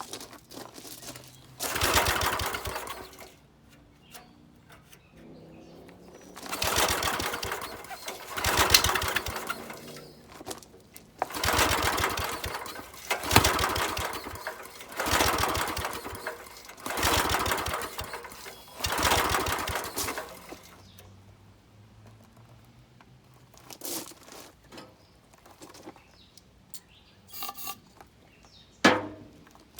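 Briggs & Stratton small engine on a gas-powered air compressor being pull-started over and over: about eight pulls, each a second or two of fast cranking, with short pauses between them. Near the end there is a single sharp knock.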